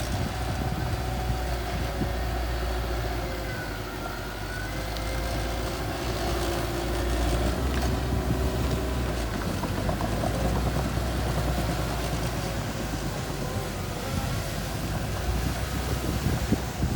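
Small bulldozer's engine running steadily with a deep rumble and a faint wavering whine above it.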